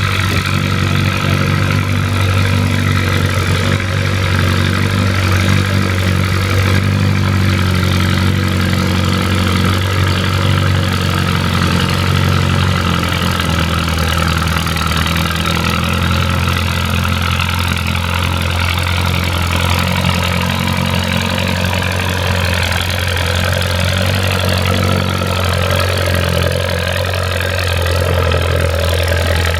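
Antique farm tractor engine running steadily, a low even drone that shifts slightly in pitch about halfway through.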